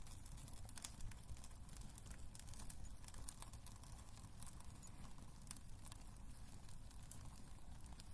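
Wood fire crackling in a fireplace: irregular sharp pops and snaps, a few louder ones, over a low steady rumble of burning.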